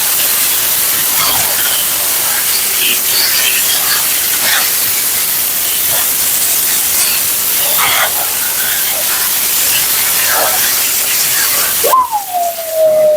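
High-velocity pet dryer blowing a steady hiss, with short whines from a Siberian husky over it. Near the end the dryer cuts off suddenly and the husky starts a long howl that drops in pitch and then holds.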